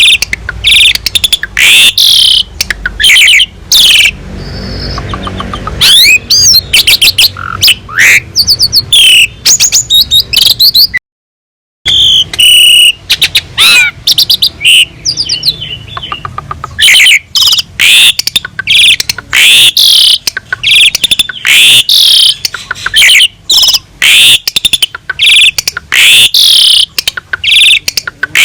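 Asian pied starling (jalak suren) singing loudly and continuously: a rapid, varied run of whistles, sweeping notes, chatter and sharp clicks, filled with imitations of other birds' calls. The sound drops out completely for under a second a little over a third of the way through.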